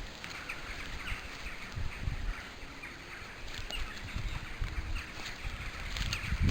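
Outdoor ambience picked up by a trail camera's microphone: irregular low rumbles and thumps, with a few faint short chirps or clicks.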